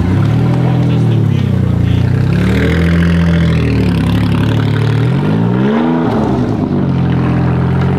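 Citroën SM's Maserati V6 engine revving as the car pulls away at low speed, its pitch rising and falling several times, with a quick climb about five seconds in that drops away again.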